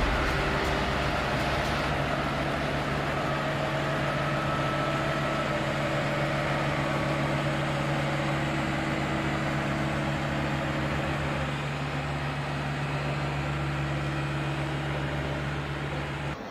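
Large vehicle engine running at a steady pitch, a continuous drone that cuts off abruptly at the end.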